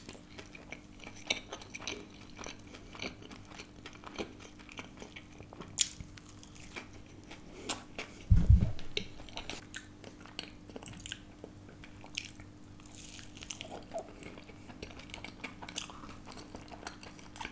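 Biting and chewing a crumb-crusted nachos dahi kebab, a fried hung-curd patty: crisp crunching with many small crackles, and one loud low thump about eight seconds in.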